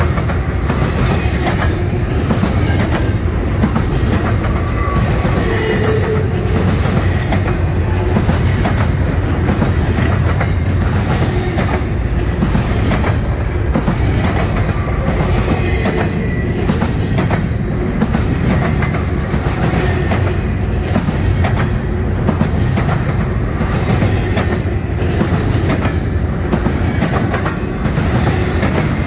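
Freight cars of a passing train rolling by at close range: a steady din of steel wheels on rail with rapid, repeated clicking over the rail joints. Faint, brief wheel squeals rise now and then.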